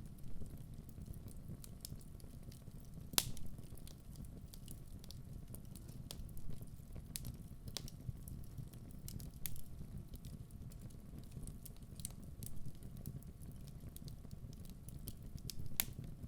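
Wood fire burning in a fireplace: a steady low rush of the flames with sharp crackles and pops of the burning logs scattered irregularly, the loudest a little past three seconds in and just before the end.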